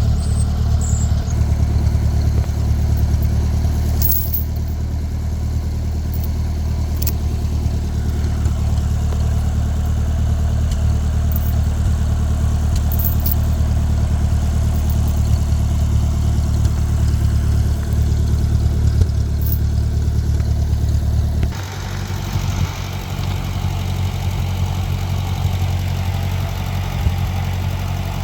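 Ford 8N tractor's four-cylinder flathead engine running steadily, then dropping abruptly to a lower, quieter idle about three-quarters of the way through.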